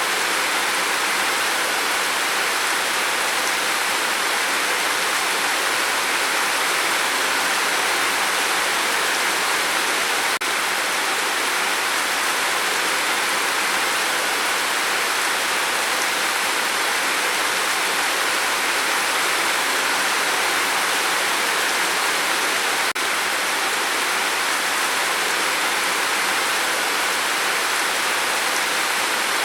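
Steady rain falling: an even, unbroken hiss with no single drops standing out.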